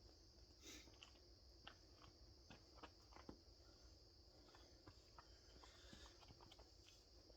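Near silence: faint scattered taps and clicks over a steady high-pitched hiss.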